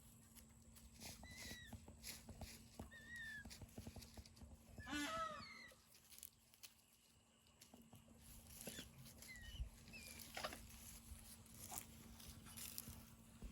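Peafowl calling faintly: a few short chirping calls, one longer and louder call about five seconds in, and scattered light taps.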